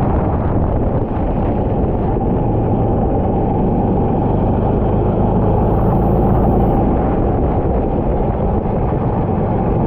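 Go-kart engine running under way with heavy wind rumble on the microphone, its pitch shifting slightly as the kart drives the circuit.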